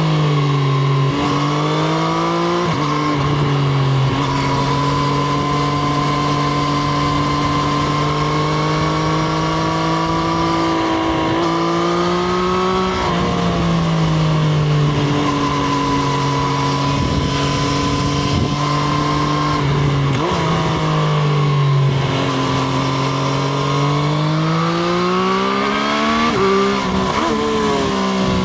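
Triumph Street Triple RS's 765 cc inline three-cylinder engine running under way at moderate, fairly steady revs, with several rises and drops in revs through the stretch.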